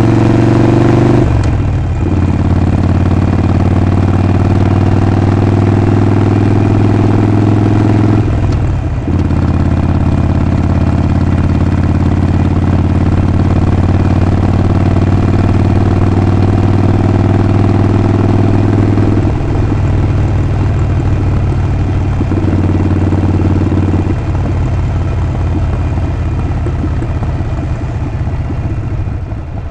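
Harley-Davidson Sportster 48's 1200 cc air-cooled V-twin running on the move, a loud steady engine and exhaust note with brief breaks about a second in and about eight seconds in. The note drops lower later on and the engine eases off and gets quieter near the end.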